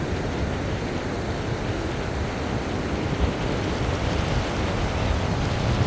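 Steady rush of surf washing onto a beach, with a low rumble of wind on the microphone.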